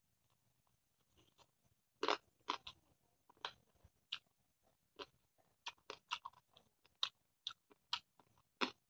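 A man chewing a mouthful of fried meat and rice close to the microphone: irregular sharp crunches and wet mouth clicks, starting about two seconds in.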